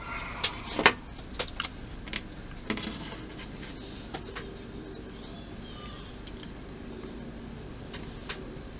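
A series of sharp clicks and knocks from plastic model parts being handled, the loudest just under a second in, then faint high chirping in the background.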